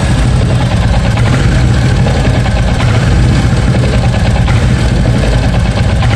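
Royal Enfield Bullet 350 single-cylinder engine running steadily near idle, with the strange noise the owner calls very irritating. He says it comes as the throttle is released and the engine drops back to idle, and that a replaced part has not cured it.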